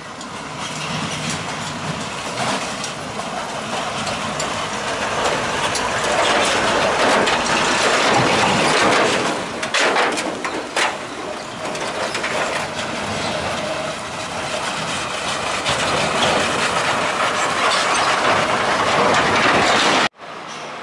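Heavy truck passing close by with its engine labouring, a dense loud noise that builds over several seconds with a few knocks in the middle, then cuts off suddenly near the end.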